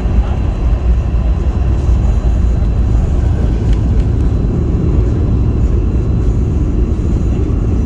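Steady low rumble inside the passenger cabin of a Boeing 717 airliner, with no single thumps or changes standing out.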